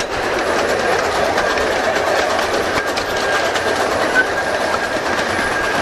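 Small 15-inch gauge park railway train running, heard from aboard: a steady rumble and clatter of wheels on the rails, with a faint thin high whine joining about two seconds in.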